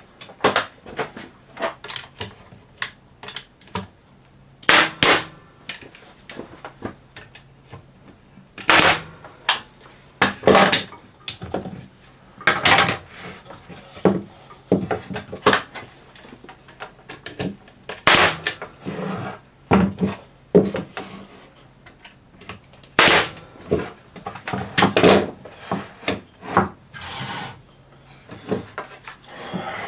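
Irregular sharp knocks and clatter of cedar fence-picket boards and tools being handled on a workbench, a dozen or more loud knocks spread unevenly, some with a short ring.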